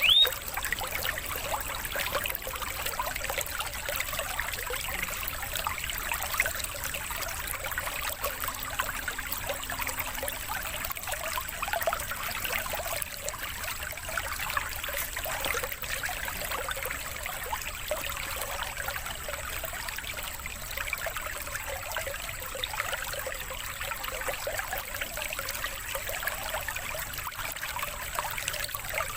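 Steady trickling, babbling running water, like a small stream, played as a water-therapy sound for cage birds.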